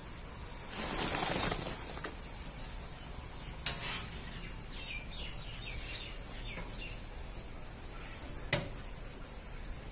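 Small birds chirping in a short run of quick calls in the middle. There is a brief rustle about a second in, the loudest moment, and two sharp clicks, one near the start of the calls and one after them.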